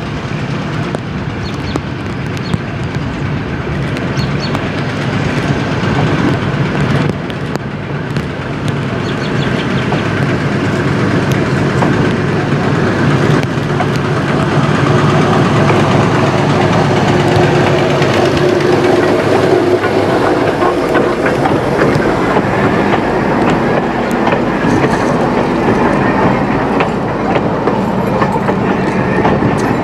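Diesel switcher locomotive running as it approaches and rolls past, growing louder over the first half. Then the steel wheels of the passing coach click and rumble over the rail joints.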